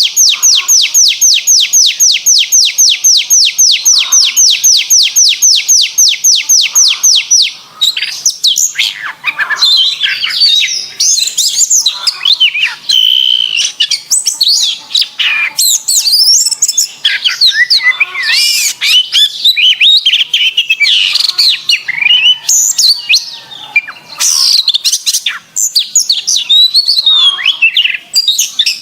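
Domestic canary singing. For about the first eight seconds it holds a fast trill of repeated falling notes, about six a second, then breaks into a varied warbling song of quick whistles and chirps.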